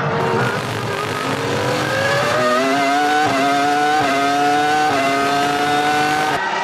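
A 2003 Formula One car's 3.0-litre V10 engine at full throttle, its pitch climbing steadily and stepping at upshifts about once a second.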